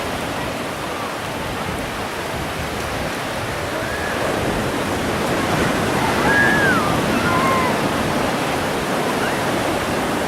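Ocean surf breaking on a beach: a steady rush of waves that swells about six seconds in.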